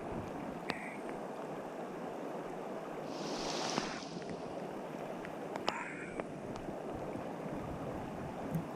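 Small stream rushing steadily, with scattered light ticks and a brief high hiss about three and a half seconds in.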